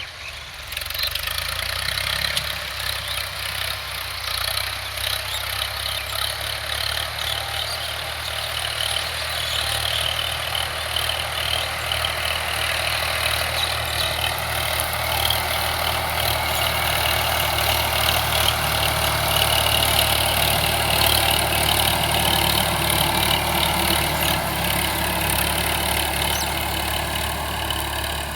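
Sonalika 745 tractor's diesel engine running steadily, growing a little louder through the middle.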